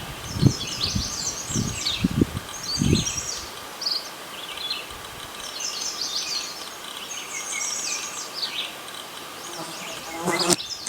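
Small birds chirping and twittering, with rapid high notes that keep overlapping. A few low thumps fall in the first three seconds, and a short louder sound comes near the end.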